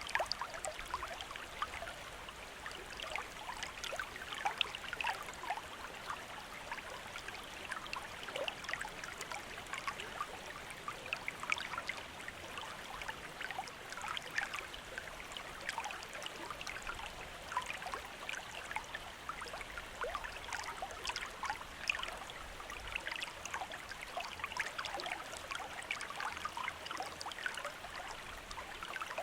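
Shallow stream of running water trickling and burbling over stones, a steady rush dotted with many small splashes and gurgles.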